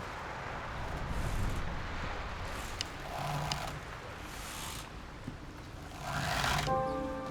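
Designed ambience of wind and sea rumbling, with a few short creaks and scrapes in the middle and a rising whoosh about six seconds in. Soft music tones come in near the end.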